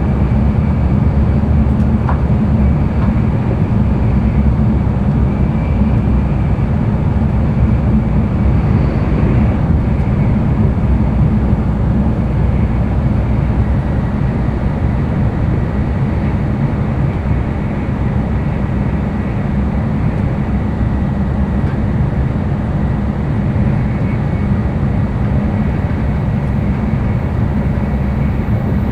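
Interior running noise of an N700-series Tokaido Shinkansen train at speed: a steady deep rumble and rush with a faint high whine.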